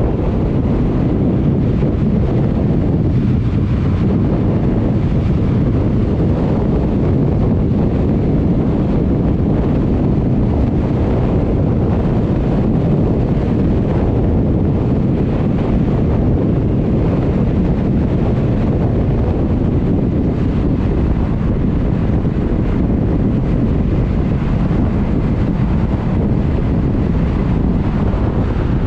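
Loud, steady wind buffeting the microphone, with no engine note standing out.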